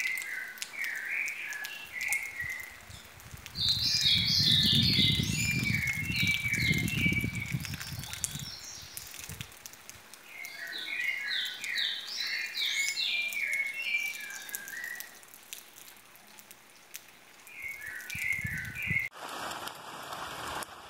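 A songbird singing phrases of quick, repeated notes, several phrases a few seconds long with short pauses between them. A low rumble sits under the song for a few seconds about a third of the way in.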